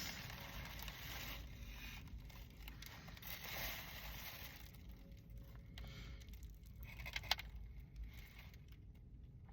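Faint crinkling and rustling of a takeout wrap's paper packaging being handled, with one sharp click about seven seconds in.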